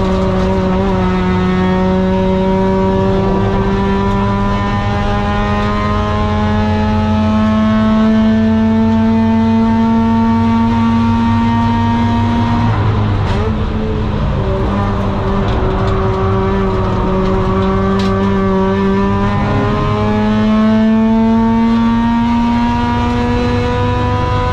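Mazda RX-8's two-rotor Renesis rotary engine accelerating, its pitch climbing slowly for a long pull. About halfway through the pitch drops, holds steady for several seconds, then climbs again near the end.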